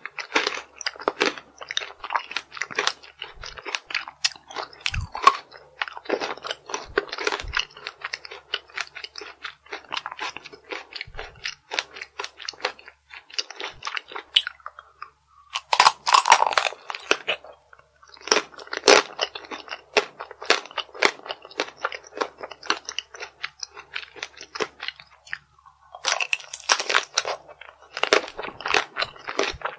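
Close-miked biting and crunchy chewing of hard chocolate-coated tanghulu, with a few louder crunching bites about 16, 19 and 26 seconds in.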